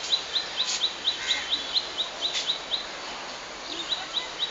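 A bird chirping: short high notes repeated evenly about five times a second, breaking off about three seconds in and starting again near the end, with a few louder, sharper calls over them.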